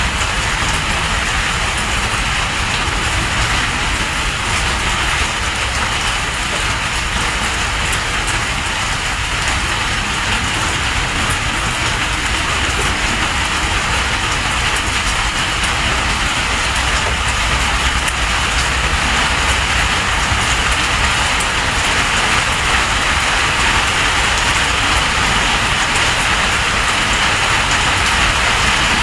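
Steady rain falling during a storm, an even hiss with a low rumble underneath.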